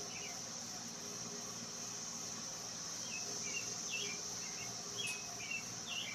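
Steady high-pitched drone of insects, with a bird chirping in short repeated calls through the second half.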